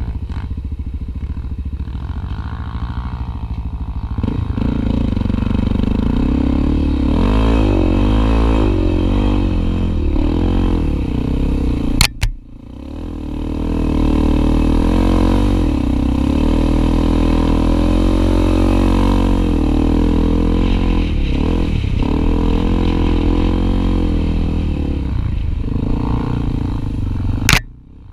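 Honda Tornado 250 trail motorcycle's single-cylinder four-stroke engine running under way, its revs rising and falling. The sound breaks off sharply and briefly twice, about twelve seconds in and near the end.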